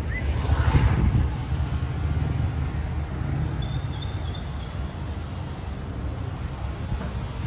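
Street traffic: a steady low rumble, with a vehicle passing about a second in, and faint high chirps over it.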